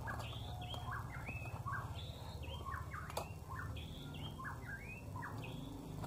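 A small songbird chirping: a quick, continuous run of short bent notes, with one sharp click about three seconds in.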